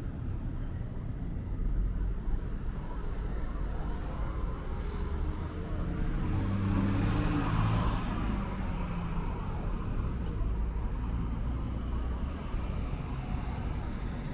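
A car passing close by on a street, its engine and tyre noise swelling to a peak about halfway through and then fading, over a steady low rumble of traffic.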